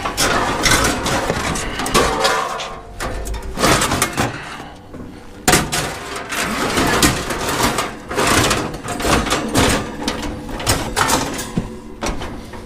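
Scrap steel being handled and loaded: a run of metal clanks, knocks and scrapes, some pieces ringing briefly, with a sharp bang about five and a half seconds in.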